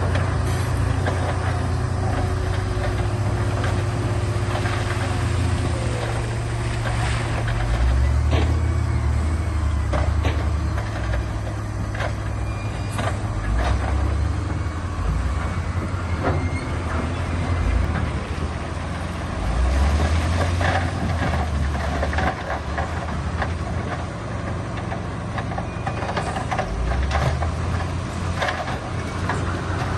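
Heavy diesel earthmoving machinery working: a low engine drone that drops and rises every few seconds as the machine takes load, with scattered clanks and knocks.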